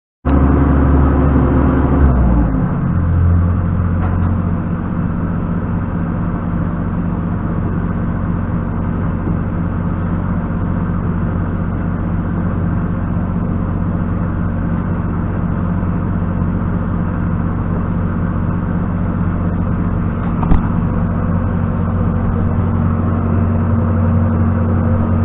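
An engine running steadily, dropping from a higher speed to a lower idle about two seconds in, with a single sharp knock near the end.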